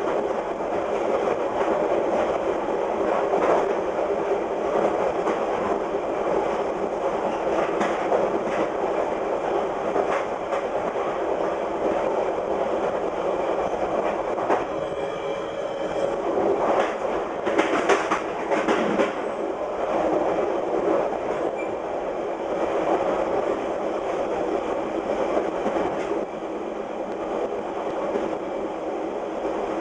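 VIA Rail passenger train running fast on jointed rail, with its wheels clacking over the rail joints above a steady rolling rumble. A cluster of louder clacks comes a little past halfway.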